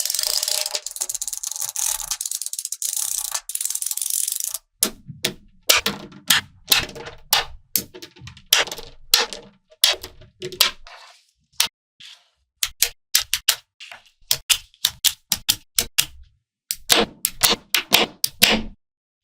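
Small magnetic balls rattling continuously for the first few seconds, then clicking sharply into place one after another, several clicks a second with short pauses, as they snap together.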